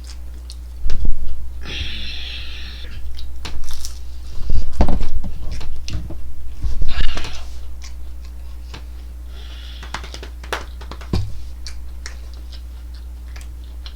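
A person chewing chicken nuggets with heavy, hissing breaths through the nose, while small wet mouth clicks run throughout. A steady low electrical hum sits underneath.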